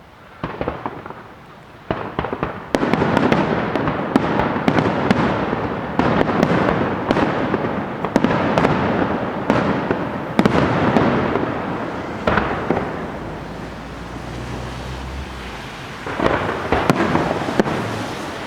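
Aerial firework shells bursting in a dense barrage of sharp bangs. A few single bangs come first, then the barrage builds a couple of seconds in, eases off past the middle and picks up again near the end.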